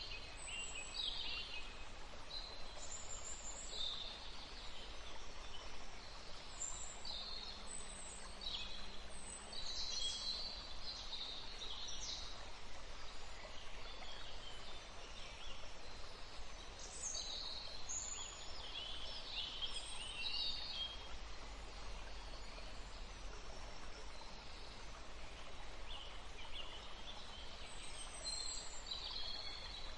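Several small birds chirping and calling, short high notes and trills coming thick and fast, over a steady background hiss.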